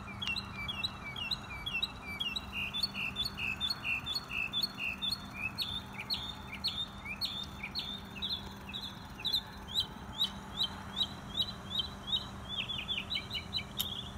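A songbird singing a long run of short, sharp chirping notes, about three a second, quickening into a fast trill near the end. A steady low hum sits underneath.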